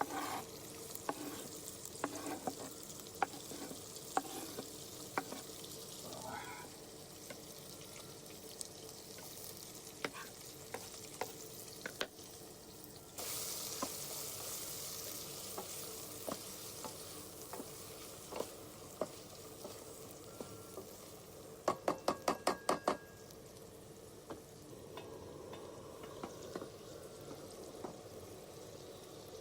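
Chopped onions and chilli frying in oil in a pan with a steady faint sizzle, a spoon now and then clicking against the pan as they are stirred. The sizzle grows louder for a few seconds about halfway through, and near the end comes a quick run of about seven taps.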